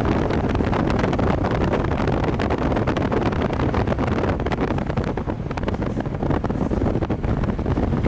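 A vehicle running at speed, with wind buffeting the microphone.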